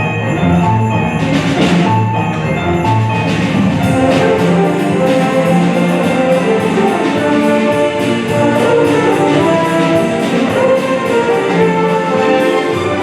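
Symphony orchestra playing, with a steady percussion beat coming in a few seconds in.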